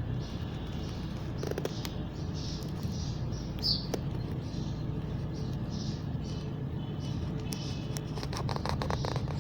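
Pet parrot chirping softly in short high calls, with one sharper downward chirp a few seconds in and a run of quick clicks near the end, over a steady low hum.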